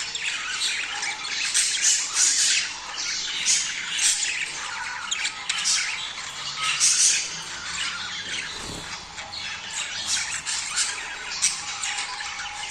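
A flock of budgerigars chattering: many overlapping quick chirps, squawks and warbles, going on without a break.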